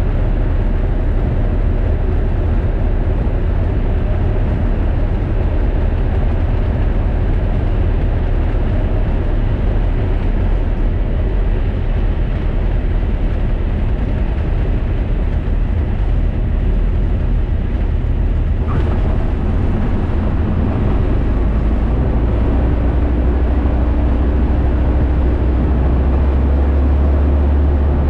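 Aircraft during a touch-and-go: steady engine and airflow noise with a deep rumble. About nineteen seconds in the sound shifts, and the low rumble grows louder, joined by a steady hum.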